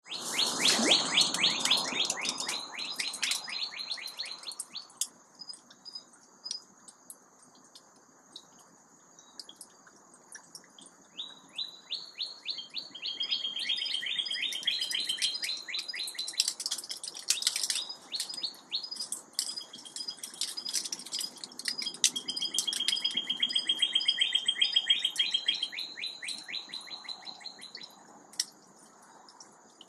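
Songbirds singing at sunrise: a long, fast trill of rapid repeated notes, heard three times for several seconds each, with scattered short chirps between, over a steady high-pitched tone.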